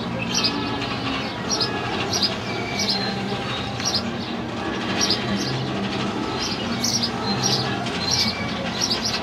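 Small birds chirping, short high chirps repeated several times a second, over a steady low rumble of outdoor background noise.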